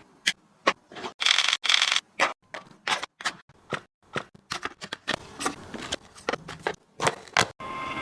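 Light clicks and knocks of plastic containers and food packages being handled and set down, with rustling of packaging a little over a second in.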